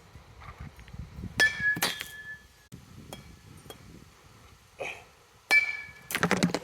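Two sharp metallic pings, each ringing briefly, about four seconds apart, as a softball strikes metal during practice, then a quick run of knocks near the end.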